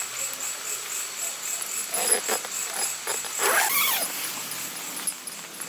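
A zipper pulled in a few quick rasping strokes, most likely on a tent or gear bag, over a steady high chirring of crickets.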